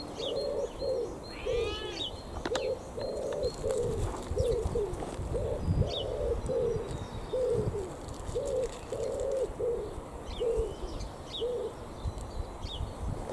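A bird calling in a long series of low notes, about two a second, stopping near the end, with short high chirps from small birds.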